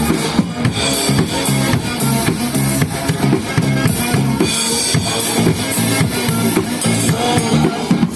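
Drum kit played live over a recorded dance song, with a steady beat of kick drum and snare hits over a repeating bassline.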